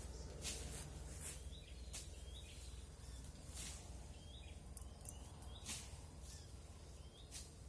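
Forest ambience with a small bird calling in short, hooked chirps every second or two. Brief high hissing ticks are mixed in, over a steady low rumble.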